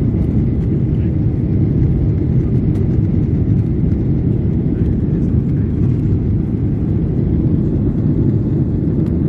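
Steady, loud low rumble of an airliner in flight, heard from inside the cabin.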